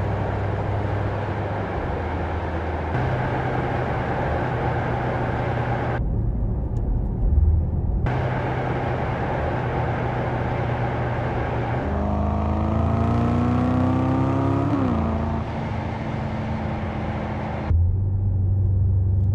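Mercedes-AMG S 63 E Performance's 4.0-litre twin-turbo V8 and exhaust while driving, heard in several short cut-together clips. About twelve seconds in, the engine pulls hard, rising in pitch for about three seconds, then drops suddenly as it shifts up and settles to a steady run.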